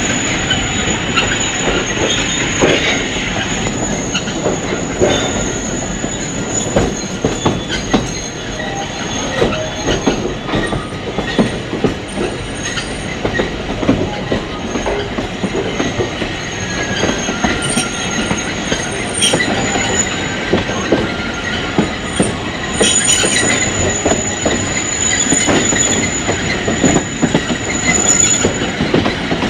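Alishan Forest Railway train running, heard from on board: a steady rumble with irregular clattering and knocking of the wheels on the track. A thin, high wheel squeal runs over it, strongest near the end.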